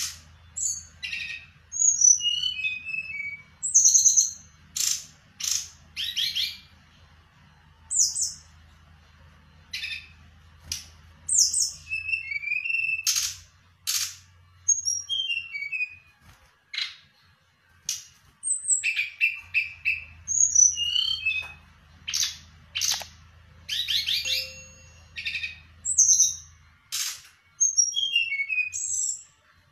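Songbird singing vigorously: a long run of short, varied phrases of high whistles, sweeping chirps and fast rattling trills with brief pauses between them. A faint low hum runs beneath parts of it.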